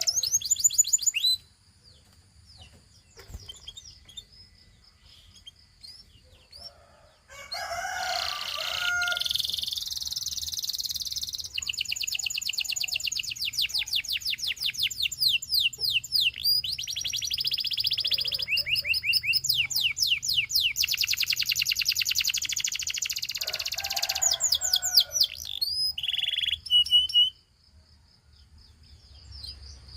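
Gloster canary singing. A short phrase is followed by a quiet spell, then a long song of fast, rolling trills of rapidly repeated high notes, with a brief pause near the end.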